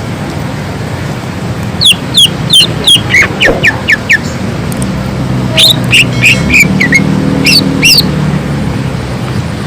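Cucak ijo (green leafbird) singing in full song: two runs of rapid, sharp whistled notes that each slide downward in pitch. The first run comes about two seconds in and the second around six seconds. A low steady hum sits under the second half.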